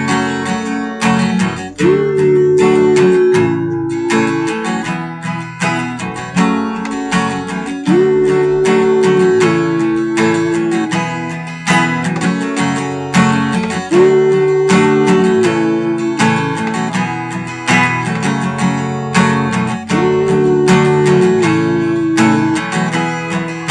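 Acoustic guitar strummed in a steady rhythm through a repeating chord sequence, with a held higher note that recurs about every six seconds.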